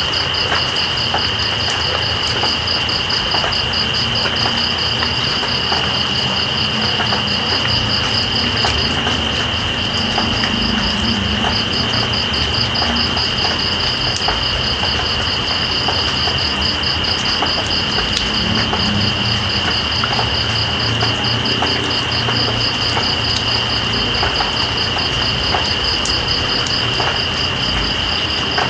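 Night insects trilling: one steady high trill and a second, rapidly pulsing trill above it that drops out briefly about nine and eleven seconds in, over a steady hiss of rain with scattered drips.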